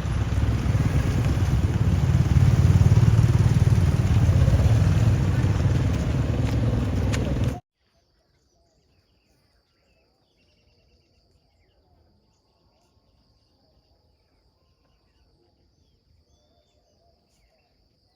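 An engine running steadily under loud rushing noise, which cuts off abruptly about seven and a half seconds in. After that only faint bird or insect chirps and a thin, steady high insect drone remain.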